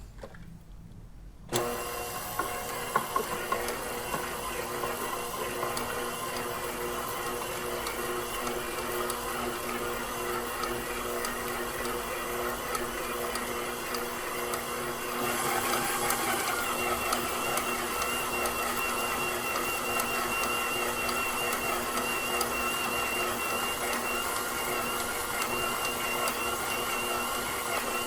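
KitchenAid Professional 6000 HD stand mixer's DC motor running, turning the spiral dough hook through bread dough. It starts about a second and a half in with a few knocks and gets louder about halfway through. The load is light, because the buttery dough has not yet formed a ball.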